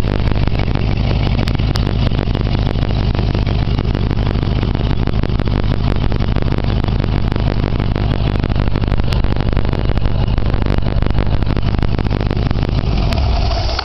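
1937 flathead engine running steadily, a deep even hum with fast ticking through it.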